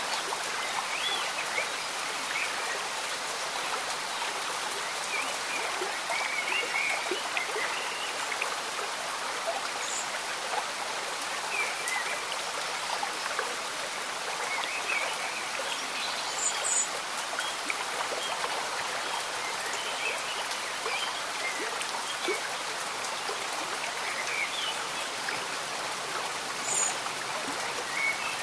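A small stream bubbling and gurgling steadily, with gentle rain pattering and occasional small high chirps.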